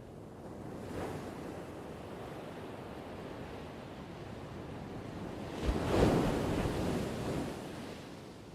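Ocean surf: a smaller wave swells about a second in, then a bigger wave breaks about six seconds in with a low thump, the loudest moment, and its wash fades away.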